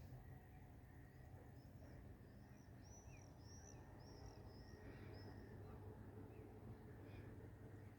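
Faint bird song: a run of short, high chirps lasting a few seconds, over a quiet outdoor background with a steady low hum of noise.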